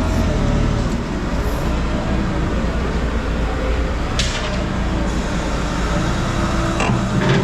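Heavy machine's engine running steadily with a low rumble. A brief sharp sound comes about four seconds in, and a few short knocks come near the end.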